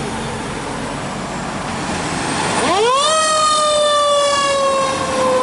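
Fire truck siren starting about two and a half seconds in: a quick rising wail that levels off and then slowly falls, over the truck's engine and road noise.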